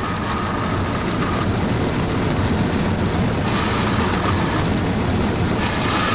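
A power tool running steadily: a loud, even rushing noise with a faint high whine that comes and goes.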